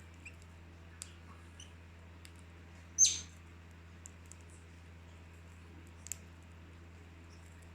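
A pet bird gives one loud, short chirp about three seconds in, among faint scattered clicks and ticks, over a steady low hum.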